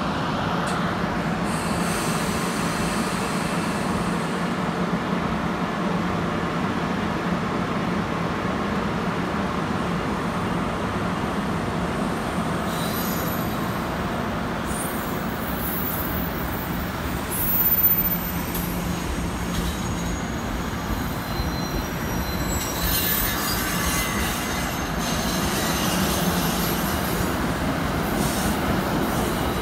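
NJ Transit commuter train, an ALP-46A electric locomotive with Comet coaches, rolling past the station platform with a steady rumble of wheels on rail. In the second half, high-pitched wheel squeals come and go, with one brief louder moment.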